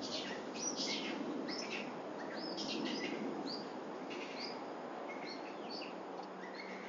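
Many short, quick bird chirps and tweets, scattered irregularly, over a steady background rush of outdoor noise; a faint steady low hum comes in near the end.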